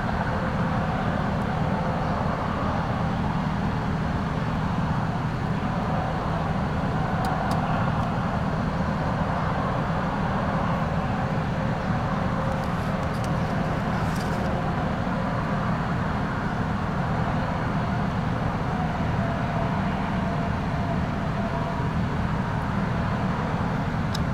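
Steady low rumble of motor-vehicle noise with a faint hum, unchanging throughout; a few faint ticks come about a third of the way in and again around the middle.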